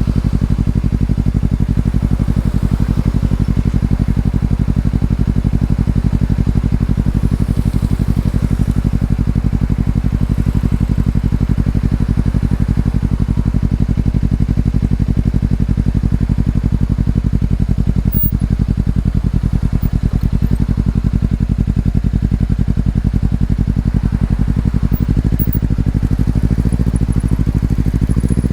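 Exhaust of a 2020 Honda CBR250RR (MC51) parallel twin through an Over Racing aftermarket exhaust, running at a steady, unchanging engine speed, with a slight change in pitch near the end.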